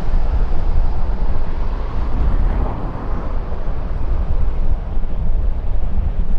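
Jet airliner engine noise, a steady broad rush, mixed with strong wind buffeting on the microphone.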